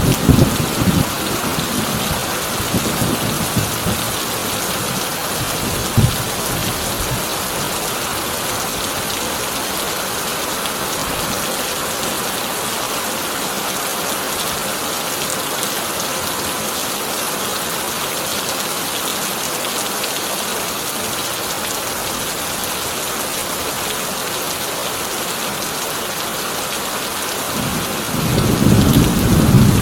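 Heavy rain falling steadily on a corrugated tin roof, with a roll of thunder dying away in the first second or so, a short low thump about six seconds in, and thunder rumbling up again near the end.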